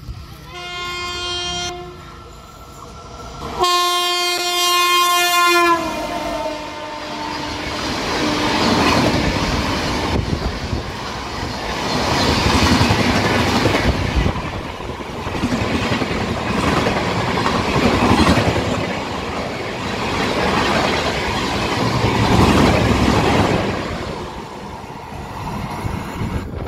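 Indian Railways train horn sounding twice, a short blast and then a longer, louder one whose pitch drops as the locomotive passes. Then a passenger train of LHB coaches rushes past close by, with rattling wheel clatter over the rail joints that grows louder and quieter in waves and fades near the end.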